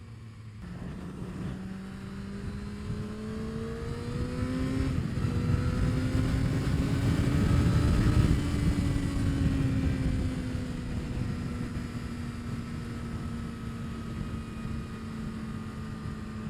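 2025 Kawasaki ZX-6R's inline-four on its stock exhaust pulling under acceleration. The revs climb, drop at an upshift about five seconds in, and climb again. Then it eases off and settles to a steady cruise.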